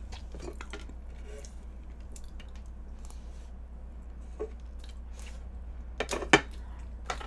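Soft, wet chewing and mouth sounds of someone eating, with a few sharper clicks of metal tongs against a wooden serving board about six seconds in.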